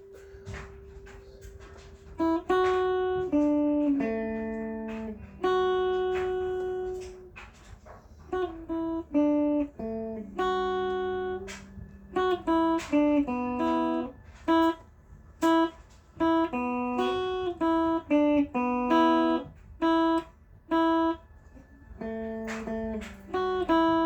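Electric guitar through a small solid-state Blackstar practice amp, picking a slow single-note melody one note at a time, some notes short and some left to ring for a second or two.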